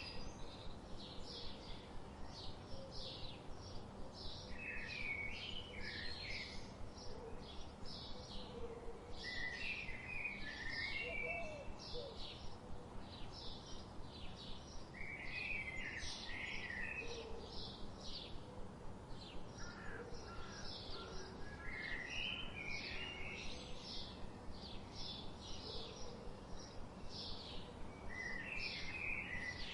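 Songbirds singing: a rapid run of short high chirps throughout, with a lower warbled phrase about every five seconds, over a steady hiss of a river.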